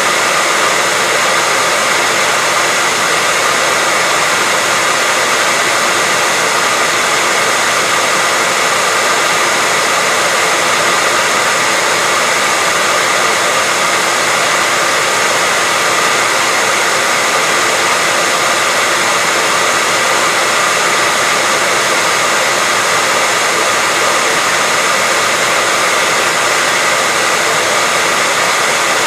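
Hair dryer running steadily: a constant rush of blown air with a faint, even whine, unchanging throughout.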